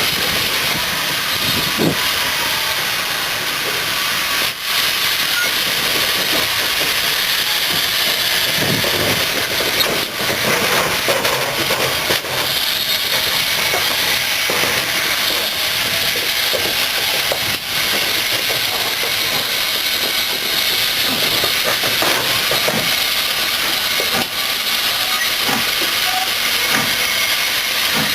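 Steam locomotive hissing steam steadily and loudly, with a few faint knocks.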